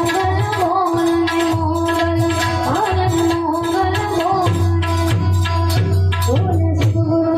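Folk music with tabla-style drumming and deep bass beats over a held drone, with a singing voice.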